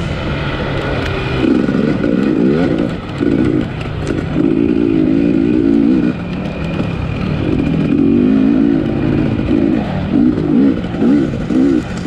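Off-road racing motorcycle engine revving hard, its pitch climbing and dropping again and again as the throttle opens and closes. Near the end come several short, quick bursts of throttle.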